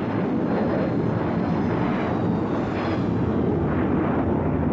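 Passenger airliner engines, a loud steady rumble.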